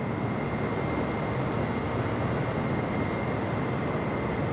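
Jet engines of a Boeing 777-300ER running with a steady rumble and a thin, steady high whine.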